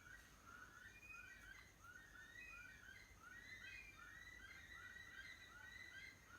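Several bush stone-curlews calling together in a faint, rapid chorus of short rising-and-falling wailing notes that overlap continuously.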